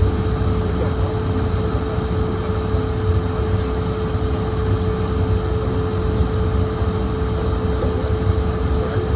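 Steady cabin noise inside a Swiss Airbus A220-100: a low rumble with a steady hum, unchanging throughout.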